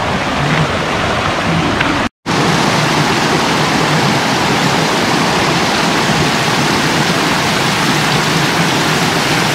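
Mountain valley stream rushing over rocks: a loud, steady wash of water, broken by a brief dropout about two seconds in.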